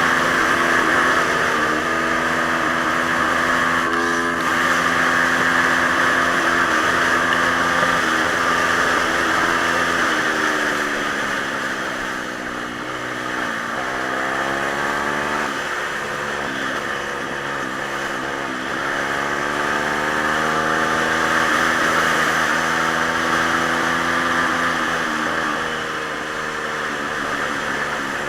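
Pit bike's small single-cylinder four-stroke engine running, its pitch falling about halfway through, then rising again and easing back down, over a steady hiss.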